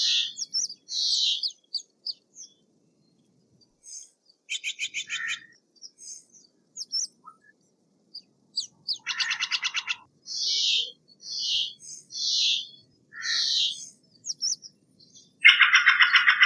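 Steller's jay calling: a string of short, harsh, rasping calls, broken by three quick rattling trills of about a second each, about four seconds in, about nine seconds in and, loudest, near the end.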